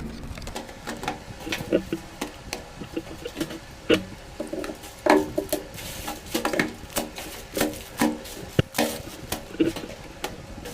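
Irregular light clicks, taps and knocks, as of small objects and packaging being handled, with a faint steady hum of voice or music underneath.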